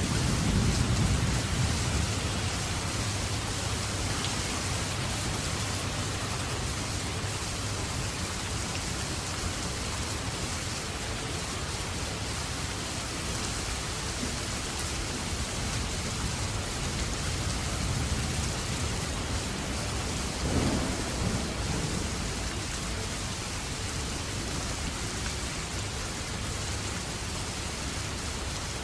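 Steady winter rain falling, an even hiss, with a low rumble in the first couple of seconds and a shorter one about twenty seconds in.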